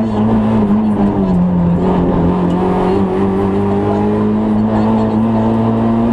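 Citroën Saxo N2 rally car's 1.6-litre four-cylinder engine heard from inside the car, running hard at high revs under load. The pitch dips a little about a second in, then climbs slowly and steadily.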